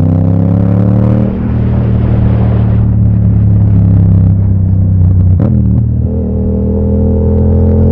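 Yamaha MT-07 parallel-twin motorcycle engine pulling hard under the rider. Its pitch rises, drops briefly about a second in and again around five and a half seconds, then climbs once more.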